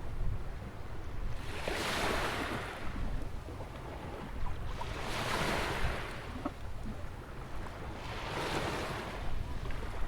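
Ocean waves breaking and washing in at a sandy beach beside a rock jetty: three surges of surf about every three and a half seconds, over a steady low rumble.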